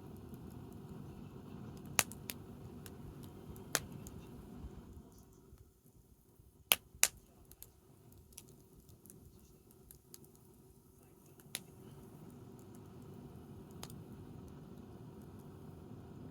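Wood fire crackling: a few sharp pops from the burning wood, the loudest two in quick succession about seven seconds in, over a low steady background rumble that fades for several seconds in the middle.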